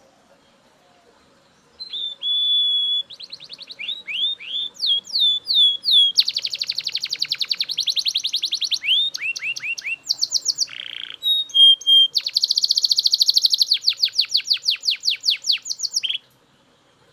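Male Belgian canary singing a long, varied song that starts about two seconds in: a held whistled note, a run of falling notes, fast rolling trills, a short lower buzzy phrase, then a long rapid trill and slower repeated notes, stopping shortly before the end.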